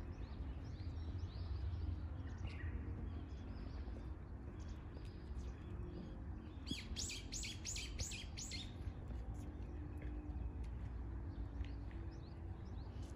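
Birds calling: scattered short high chirps, and about two-thirds of the way in a quick run of about six loud, sharp notes. A steady low rumble lies underneath.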